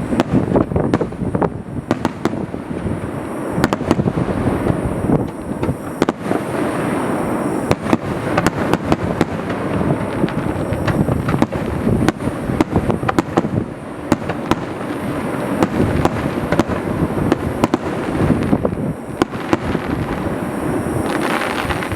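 Fireworks finale: a dense, continuous barrage of bursting shells and crackling, with many bangs overlapping every second.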